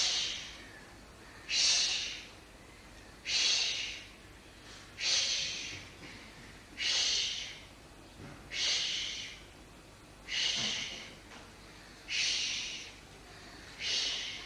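A person breathing hard in short, forceful, hissing breaths through the nose, about one every two seconds and nine times in all. Each breath starts sharply and fades.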